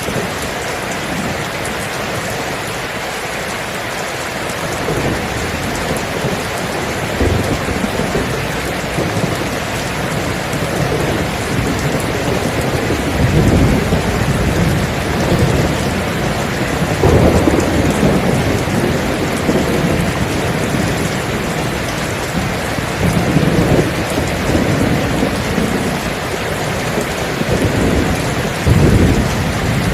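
Steady heavy rain with rolling thunder: low rumbles swell and fade several times, beginning about five seconds in, with the strongest near the middle and near the end.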